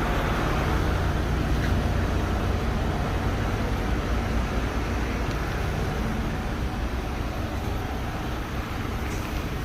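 Steady low rumble of motor vehicle noise, slowly fading.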